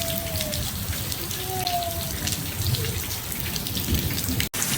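Steady rain falling, with a short thin whistle-like tone heard twice in the first half. The sound cuts out for an instant near the end.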